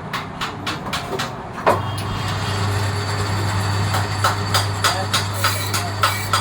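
Brake drum lathe running: a motor hum comes on about a second and a half in, under a regular tick about four times a second.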